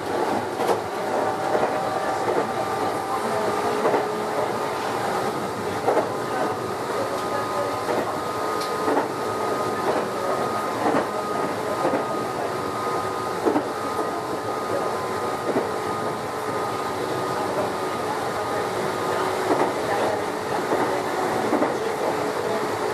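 Meitetsu 6900-series electric train car running at a steady speed, heard aboard the motor car. The traction motors and gears hum at an even pitch, over rolling noise from the track, with sharp wheel clacks over rail joints every couple of seconds.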